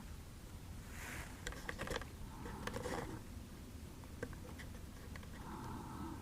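Faint handling noise from a plastic action figure: soft rustles with a few small, sharp clicks.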